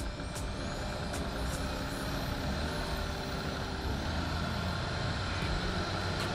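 Jeep engine running at low trail speed, heard through open windows, its note dropping a little about halfway through. A few light clicks come in the first second and a half.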